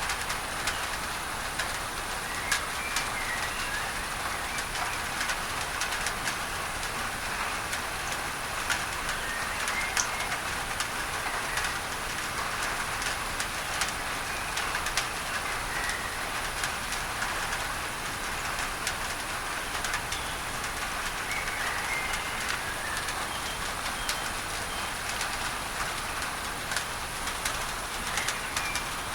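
Steady rain on a tin roof with many sharp drop ticks, under an even layer of added masking noise. Faint bird chirps come through a few times.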